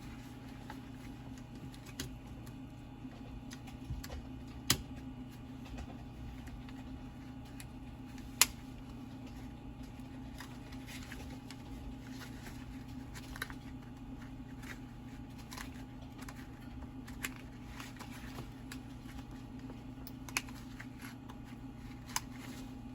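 Scattered light clicks and taps of plastic parts being handled as the switch button is fitted onto an angle grinder's housing, with two sharper snaps about five and eight seconds in. A steady low hum sits under them.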